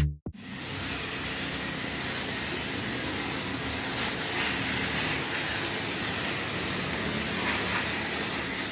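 A car-wash pressure washer spraying a car, a steady hiss of the water jet. A drum-machine beat cuts off just after the start.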